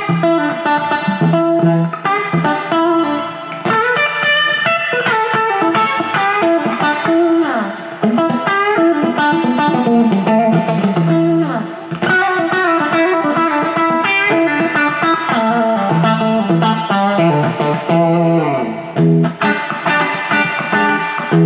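PRS SE Silver Sky electric guitar played straight into a Fender Deluxe amp: a clean-to-lightly-driven melodic line of picked notes, with several notes bent in pitch.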